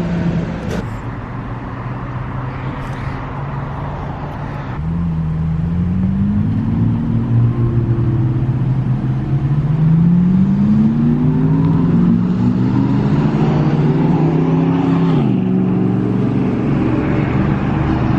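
Ferrari engine revving loudly, its pitch climbing twice and falling off sharply about fifteen seconds in, then holding steady.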